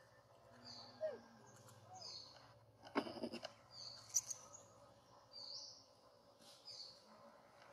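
A bird calling repeatedly outdoors, short high chirps about once a second. There is a brief burst of rustling and knocks about three seconds in.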